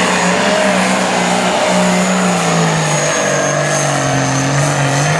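Turbocharged diesel engine of a John Deere limited pro stock pulling tractor running at full power under load, with a high, steady turbo whistle over it. The engine note wavers and drops a little about three seconds in.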